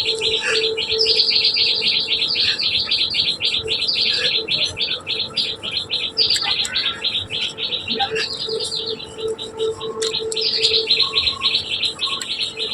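Small birds chirping in long runs of fast, high repeated notes, each run sliding slightly downward in pitch, with short breaks between runs. A faint low steady hum lies underneath.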